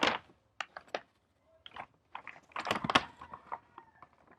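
Plastic takeout packaging being handled at close range: a run of light clicks, taps and crinkles, busiest about two and a half to three seconds in.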